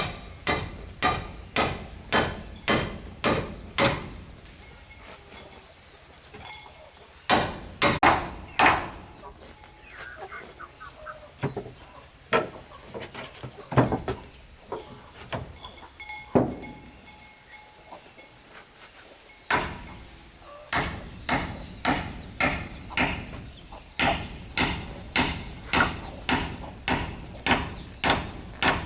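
A hand tool striking wood in steady runs of blows, about two a second, with pauses and a few scattered knocks between the runs.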